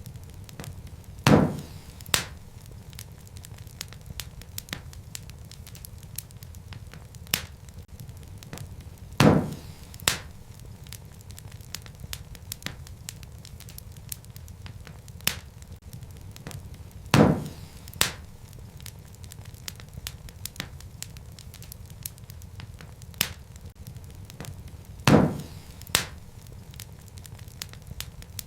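Wood fire burning in a fireplace: a steady low rumble of flames with constant small crackles, and a pair of louder pops about every eight seconds.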